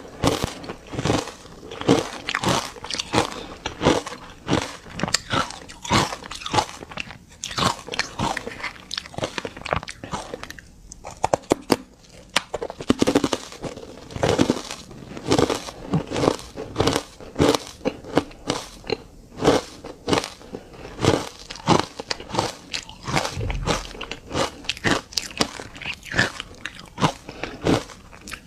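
Close-up biting and chewing of ice chunks dusted with matcha green tea powder: a steady run of loud, crisp crunches, about one or two big bites a second, with smaller crackles between as the ice breaks up.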